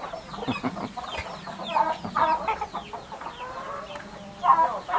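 Chickens clucking: a run of short, repeated calls, several birds overlapping, a little louder about two seconds in and again near the end.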